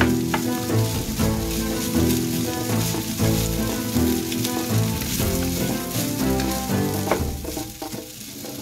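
Fried rice sizzling in a nonstick wok, with a wooden spatula scraping and stirring it, over background music.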